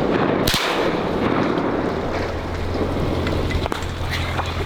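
A single shotgun shot about half a second in, the last of a volley fired at ducks, followed by steady low background noise.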